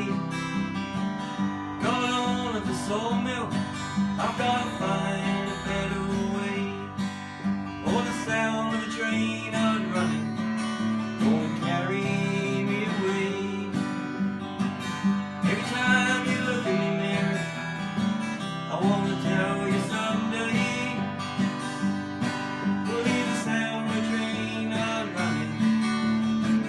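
Acoustic guitar strummed steadily as a song intro, with a melody line that bends in pitch now and then over the chords.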